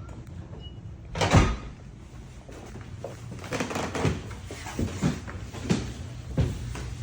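Hard knocks and clunks from hands-on work on a toilet being put back together: one heavy clunk about a second in, then a run of lighter knocks.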